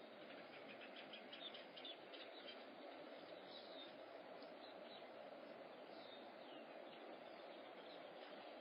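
Faint outdoor ambience: a steady low hum with small birds chirping, a cluster of quick chirps in the first few seconds and a few single calls later.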